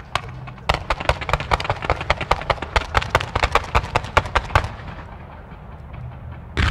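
Professional fireworks display: a rapid string of sharp bangs, several a second, as low-level comets and ground effects are fired, thinning out after about four and a half seconds. A loud bang comes right at the end.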